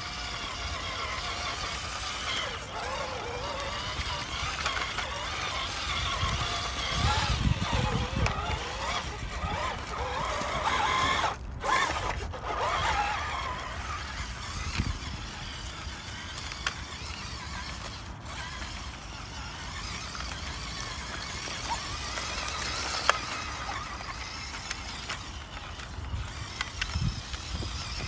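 Small electric radio-controlled off-road car driving over rough ground, its motor and gears whining and rising and falling in pitch as the throttle changes.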